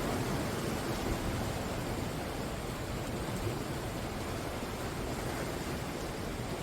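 Ocean surf breaking along the shore: a steady, continuous rush of waves with no gaps, a little stronger in the first second.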